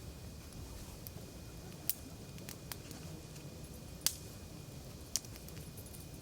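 Campfire crackling: a few sharp pops, three louder ones spread through, over a low steady rumble.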